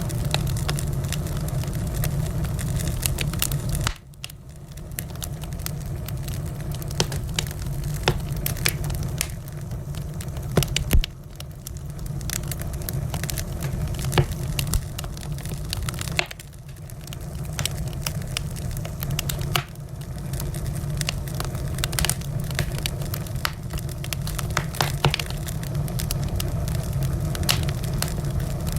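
Wood fire crackling: irregular sharp pops and snaps over a steady low rumble, with one louder pop about eleven seconds in. The rumble drops out briefly twice, about four and sixteen seconds in.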